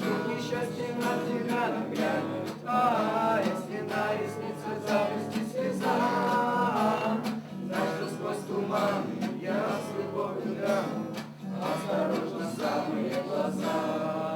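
A song sung in Russian to guitar accompaniment, the singing going on throughout.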